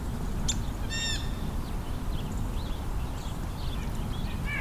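Wild birds calling outdoors: one loud, harsh call with stacked harmonics about a second in, then a scatter of faint short chirps and a short call near the end. A steady low rumble runs underneath.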